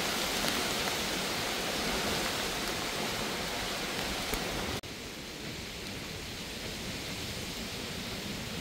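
Steady rush of heavy rain and wind in a storm. About five seconds in it cuts off abruptly to a slightly quieter, duller rush.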